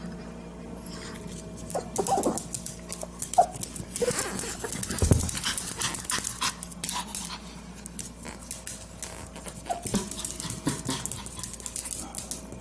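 A dog whimpering with a few short, high cries among scratchy clicking and rustling, with a dull thump about five seconds in.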